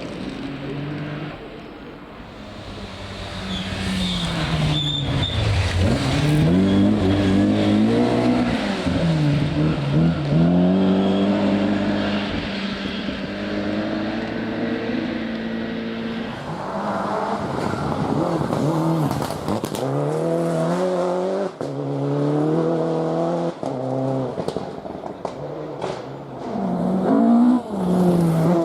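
Rally car engine being driven hard, its pitch climbing and dropping again and again as the driver accelerates, lifts off and changes gear. Several sharp cracks are scattered through the second half.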